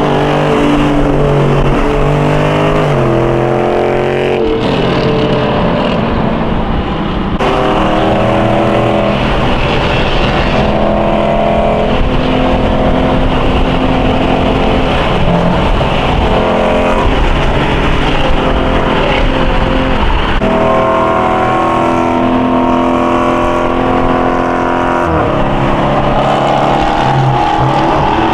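Car engine running and revving, its pitch climbing and dropping several times, with a steadier stretch in the middle and a fresh climb near the end.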